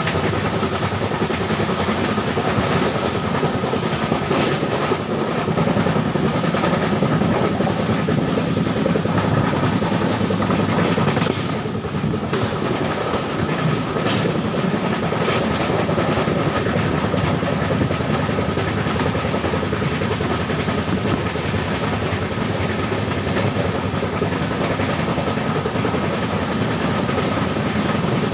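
Express passenger train coach running at speed, heard at its open doorway: a steady rumble of wheels on the rails with some clickety-clack and a thin, steady whine over it.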